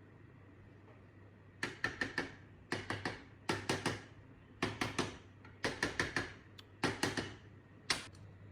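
Sharp taps or knocks in quick runs of three to five, about one run a second, starting about a second and a half in.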